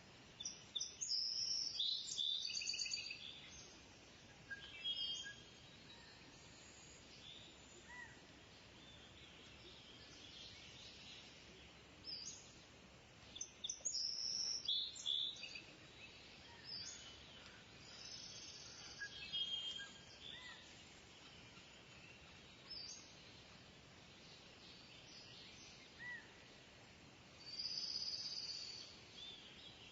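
Kingfisher calling: clusters of shrill, high-pitched calls near the start, around the middle and again near the end, with fainter single chirps in between over a steady background hiss.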